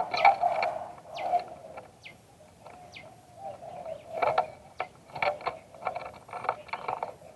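Spotted dove cooing low and in rounded phrases, with a few brief high falling chirps from another small bird in the first half. In the second half comes a run of sharp clicks or rattles.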